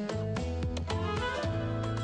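Background music: plucked strings over a steady bass line, with notes struck several times a second.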